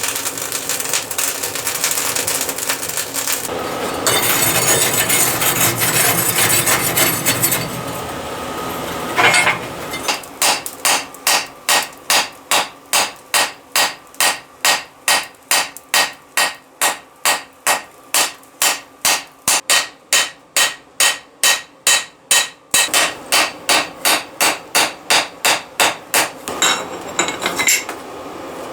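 Hand hammer striking steel in a steady rhythm, about two blows a second. This follows roughly ten seconds of dense rasping noise, and near the end the noise returns.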